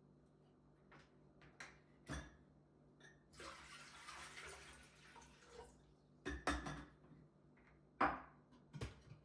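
Kitchen tap running for about two and a half seconds in the middle, with scattered clinks and knocks of dishes before and after.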